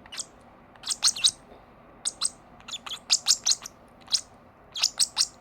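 Lovebirds chirping in quick runs of short, high chirps.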